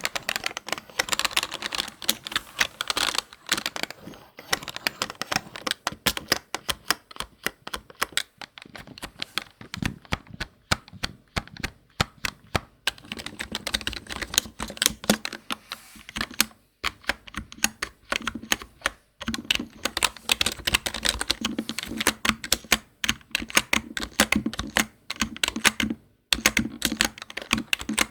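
Rapid, continuous typing on a computer keyboard: dense key clicks and taps, broken by a few brief pauses.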